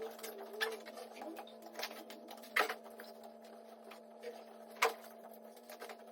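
Bodywork tools working on a car's body pillar during straightening, giving irregular small clicks and three sharp metallic knocks about two seconds apart, over a steady hum.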